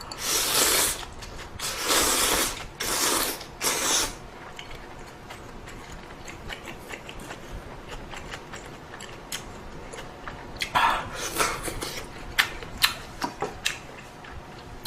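Close-miked eating of ramen: several loud slurps of noodles in the first four seconds, then quieter chewing with small clicks, and another run of slurps about eleven seconds in.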